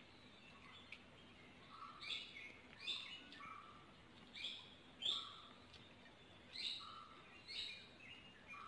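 A bird calling with short, repeated chirps, about six prominent calls spaced roughly a second apart, over a faint steady background hum.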